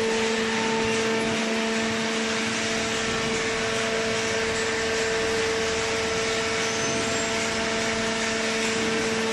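Hydraulic open-ended cardboard baler running, a steady machine hum with a constant tone under it.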